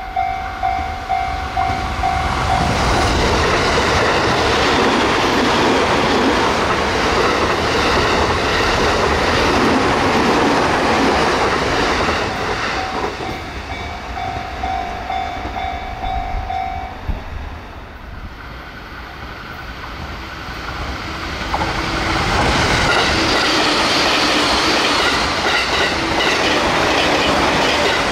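JR Uchibo Line electric trains passing at high speed, with wheels clattering over the rails and a pulsing warning-bell tone at the start and again midway. The noise eases about 18 seconds in, then builds up again for another pass near the end.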